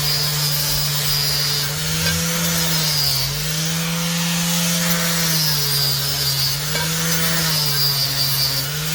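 Electric power tool motor running steadily, its pitch sagging and recovering every second or two as the load on it changes.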